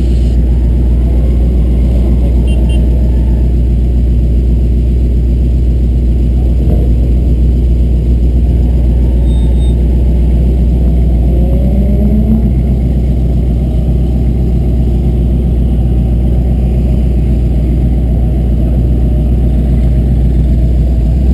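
Car and truck engines idling in a slow queue: a steady deep rumble with no revving.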